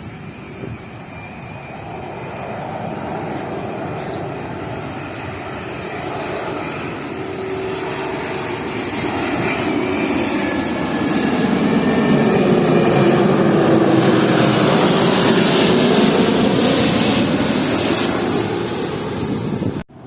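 Airliner passing low overhead on its landing approach. The jet roar builds steadily, is loudest for several seconds with gliding engine tones, then cuts off abruptly near the end.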